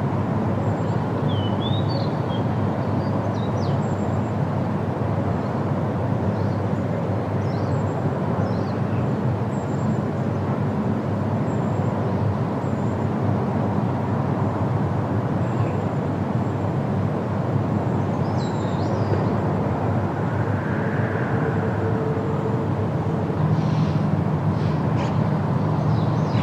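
Steady wind rushing through tree foliage, with a few short bird chirps about two seconds in and again midway.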